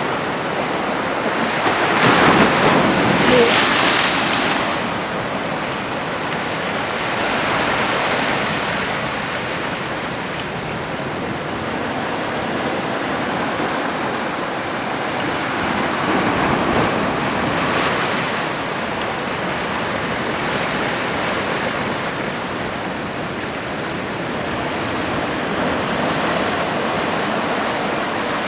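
Heavy typhoon swell breaking and washing on the shore: a continuous rushing surf. The loudest surge comes about two to four seconds in, and another swells up around the middle.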